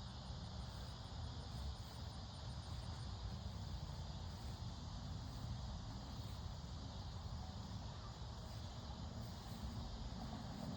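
Faint steady background of low rumble and hiss, with a fast run of high insect chirping, like a cricket's, in the first few seconds.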